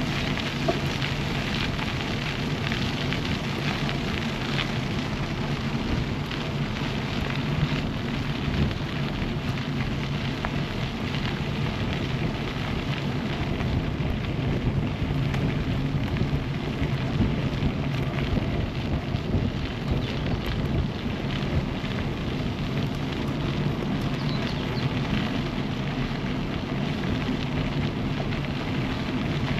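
Steady ride noise from cycling: wind rushing over the action camera's microphone and bicycle tyres rolling on the path, with a constant fine crackle.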